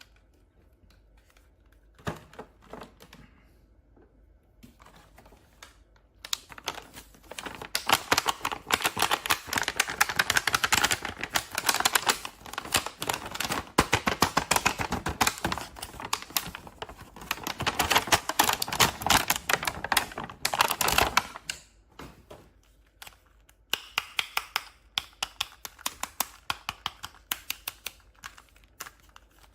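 Rapid, dense clicking and crackling that starts about six seconds in and runs until about twenty-one seconds, followed by a pause. Sparser clicks come back near the end.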